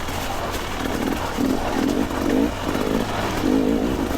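Two-stroke dirt bike engine revving up and down unevenly as the rider works the throttle through rough ground.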